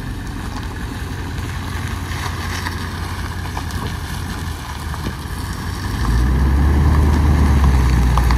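Toyota LandCruiser engine running as the four-wheel drive rolls slowly along a dirt track, a steady low rumble that grows louder about six seconds in as it draws close.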